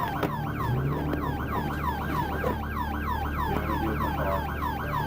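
Police car siren on the fast yelp setting, about four quick falling sweeps a second, over a steady low vehicle hum.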